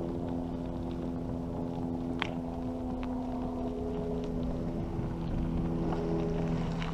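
Steady hum of a running engine, holding an even pitch, with a single sharp click about two seconds in.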